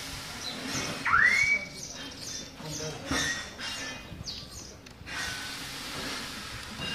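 Small birds chirping repeatedly, with one loud whistled note about a second in that rises sharply and then holds.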